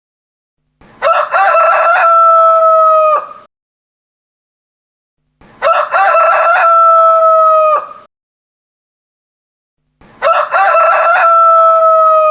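Rooster crowing three times, about every four and a half seconds. Each crow is a short broken opening followed by a long held note that falls slightly at its end; the third runs on past the end.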